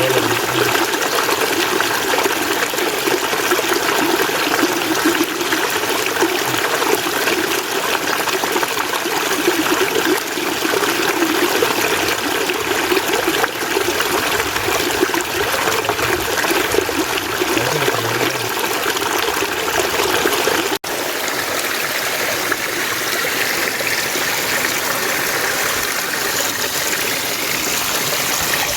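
Running water of a mountain stream, a steady rushing and trickling over rocks. About two-thirds of the way through it breaks off for an instant and resumes with a slightly different sound.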